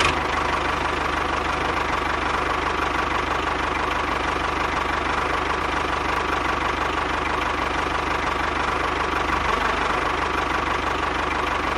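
Small motor of a mini tractor running steadily at a constant speed, with a fast, even chatter and a faint steady whine.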